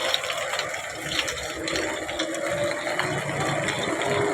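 Steady noise of water.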